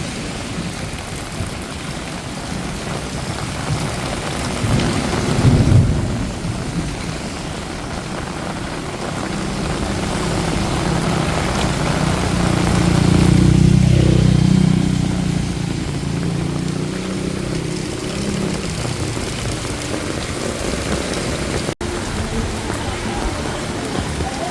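Heavy rain falling steadily. A short low rumble comes around five seconds in, and a longer one swells and fades about halfway through.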